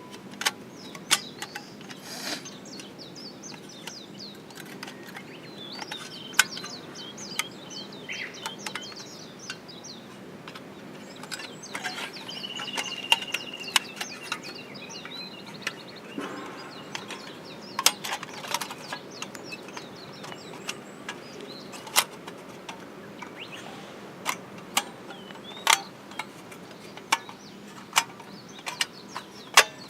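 Birds chirping in the background, with one longer call a little after halfway, while sharp clicks and knocks come at irregular intervals.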